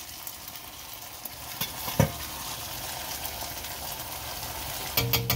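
Chicken pieces frying in a wok with a steady sizzle. There is a single knock about two seconds in and a quick run of clicks near the end.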